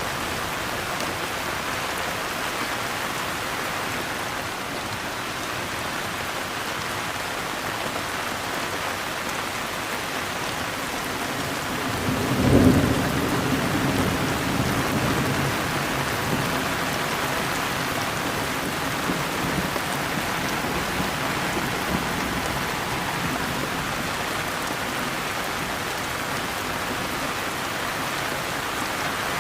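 Steady heavy rain falling, with one roll of thunder about twelve seconds in that rumbles and dies away over several seconds.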